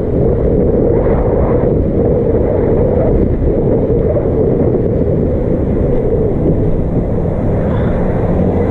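Wind buffeting a GoPro microphone on a moving e-bike: a loud, steady low noise, with a faint low hum joining about halfway through.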